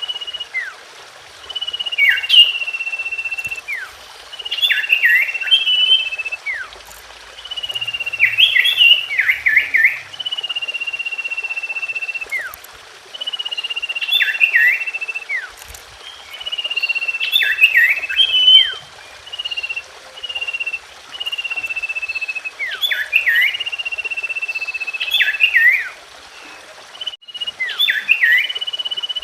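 Common iora (cipoh) song: a long, level whistle followed by a quick burst of sharp chirping notes, the phrase repeated about every three seconds.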